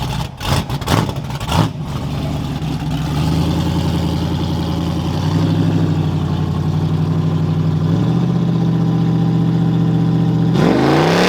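Car engine running loudly as a car pulls out, with a few sharp blips in the first two seconds, then a steady engine note that steps up about eight seconds in and rises near the end as it revs up.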